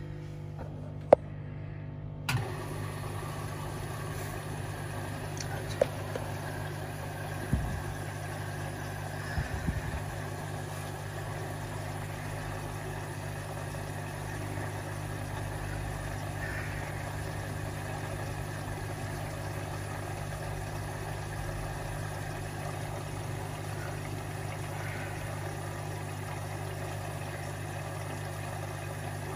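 Washing machine running with a steady low hum that starts about two seconds in. A sharp click comes just before it, and a few more clicks and knocks follow in the first ten seconds.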